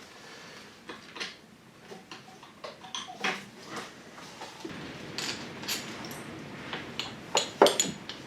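Scattered light clicks, clinks and knocks of hand work on a car's engine bay as cables are unhooked from the engine, with a few sharper clicks near the end.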